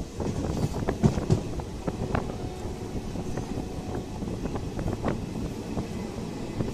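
Train running along the track, heard from aboard the moving coach: a steady rumble with irregular clicks and rattles from the wheels and carriage, and wind buffeting the microphone.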